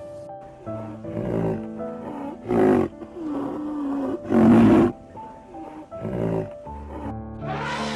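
A large wild animal roaring and growling in rough calls several times, the loudest two about two and a half and four and a half seconds in, over soft background music.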